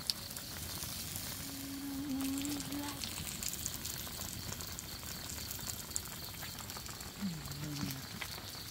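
Fish sizzling in a hot pan: a steady crackling hiss with small pops. Two short low hums sound over it, about two seconds in and again near the end.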